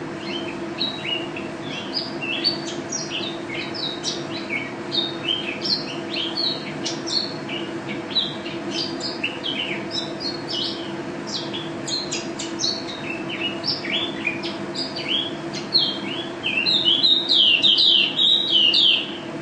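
A white-eye (pleci) singing a fast, continuous run of short high chirps and trills, breaking into a louder, denser burst of song near the end, over a steady low hum.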